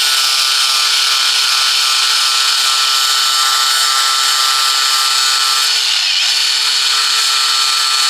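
Angle grinder running steadily while shaping a damaged gearbox gear; its pitch dips briefly about six seconds in, as if pressed harder into the metal.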